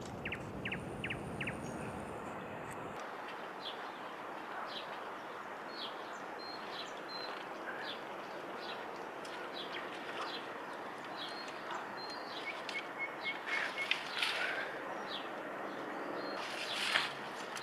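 Small birds chirping and giving short whistled notes again and again over a steady natural background hiss. A few louder brief rustling or splashing sounds come near the end.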